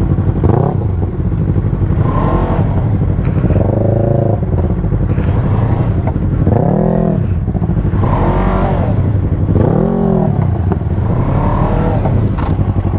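Yamaha sportbike engine idling with the throttle blipped repeatedly, about seven short revs that rise and fall in pitch over a steady idle.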